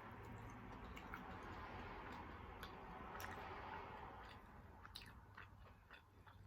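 A person chewing a mouthful of homemade boneless chicken wing close to the microphone, with scattered small mouth clicks and smacks in the last couple of seconds.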